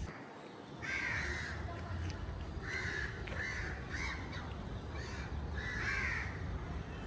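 Birds calling: a series of about eight short, noisy calls starting about a second in, over a steady low background rumble.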